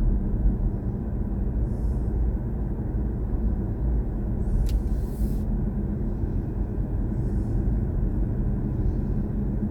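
Steady low road and tyre rumble heard inside the cabin of a moving BMW i4 M50, an electric car with no engine note.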